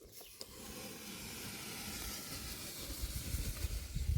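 Steady hiss from the food cooking, building up about half a second in, with low rumbling knocks in the last second.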